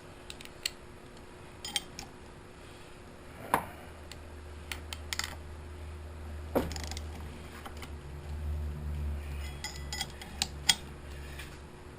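Hand tools clinking and knocking against metal while a stuck engine part is worked loose by hand. There are a dozen or so sharp clinks, scattered unevenly, the loudest about three and a half, six and a half, and ten and a half seconds in, over a low hum.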